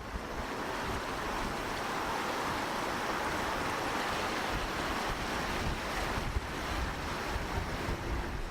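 Gusty wind rushing and buffeting the microphone with low rumbles, the rush swelling a couple of seconds in and easing after about six seconds.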